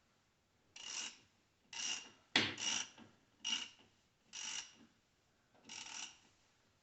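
Hand-tool work on a tractor's steering column: repeated short rasping strokes, about one a second, with one sharp click near the middle.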